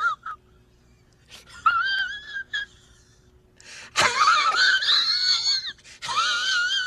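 A series of high-pitched, wavering wailing cries. The loudest starts suddenly about four seconds in and lasts over a second and a half.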